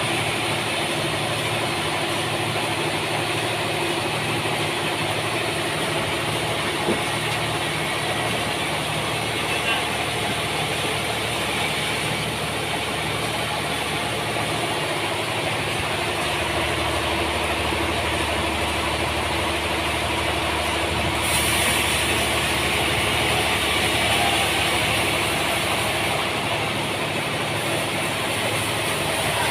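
Sawmill running steadily, its engine and blade making a continuous mechanical drone with a strong hiss. The sound shifts about 16 seconds in and again around 21 seconds in.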